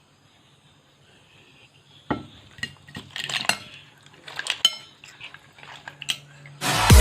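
Kitchen utensils clinking and knocking against pots and dishes: a string of sharp, irregular clinks after about two seconds of quiet. Loud electronic dance music cuts in just before the end.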